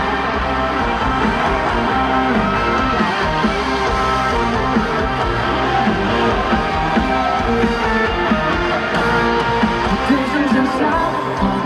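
Live band playing an instrumental passage of a pop-rock song over a concert PA, with guitar prominent and no singing.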